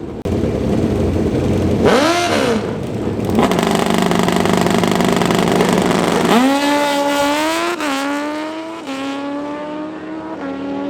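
Drag-racing motorcycle engine: a quick rev about two seconds in, then held at steady high revs on the line. It launches about six seconds in and accelerates hard, the pitch climbing and stepping down at each upshift.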